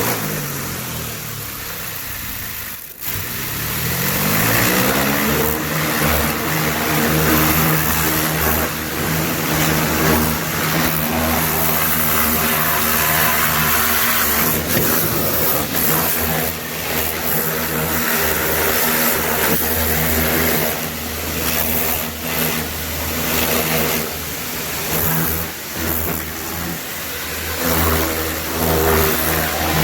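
Hot-water Kärcher pressure washer with a rotary nozzle. Its motor and pump spin up with a rising whine over the first few seconds, then run steadily under the loud hiss of the water jet, which shifts and dips as the spray moves.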